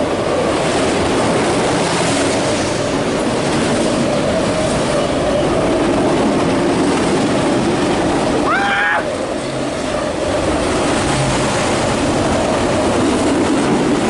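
Freight train of empty autorack cars rolling past, a steady loud rumble and rattle. A short rising-and-falling tone cuts through about nine seconds in.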